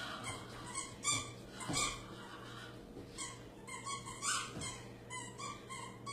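Doberman puppy making short, irregular vocal sounds, several in a row, over a steady low hum.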